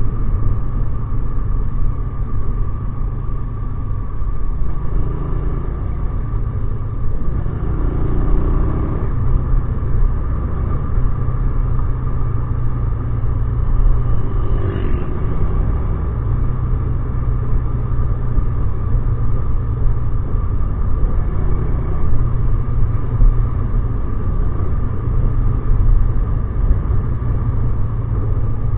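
Motorcycle engine running steadily under way, with road rumble.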